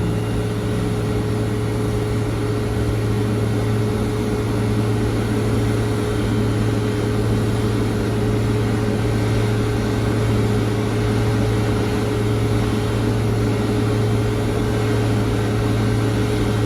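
Steady engine drone on an airport apron: a strong low hum with a held mid-pitched tone over an even rush of noise, from aircraft and ground equipment running during a Boeing 777-300 pushback.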